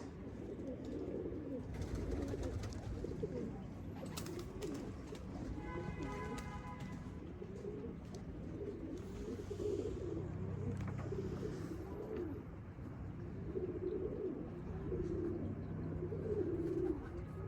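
Domestic pigeons cooing continuously, low warbling calls overlapping one another. A brief pitched tone sounds for about a second around six seconds in.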